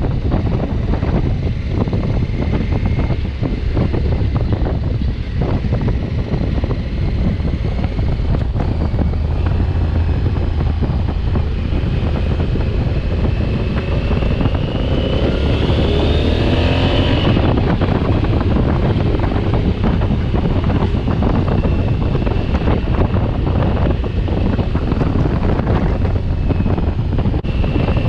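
Wind rushing over the microphone of a 2020 Honda Africa Twin motorcycle riding at road speed, with engine and road noise underneath. A brief swelling sound rises and falls about halfway through.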